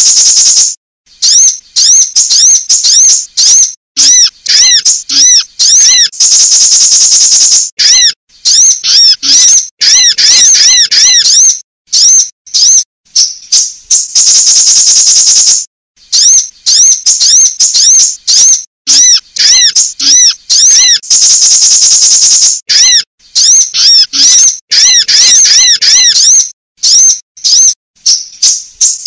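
Looped female sunbird call used as a lure: quick series of high, arched chirps, broken about every seven seconds by a long, buzzy high trill. Played very loud.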